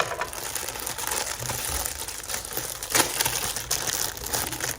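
Snack packaging crinkling and rustling as snacks are packed, with a sharp knock about three seconds in.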